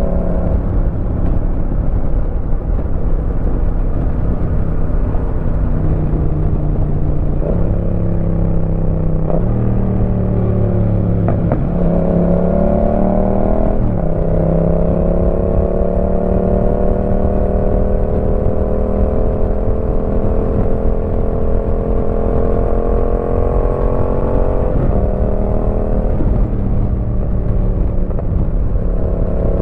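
Yamaha MT-07's parallel-twin engine through an aftermarket Roadsitalia exhaust, running under way on the road. Its pitch steps abruptly several times as gears change, with a long slow climb in revs through the middle.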